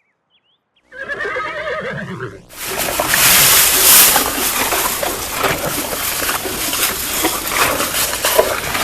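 A horse whinnies about a second in, then loud, continuous splashing of water, thick with small splashes, takes over for the rest.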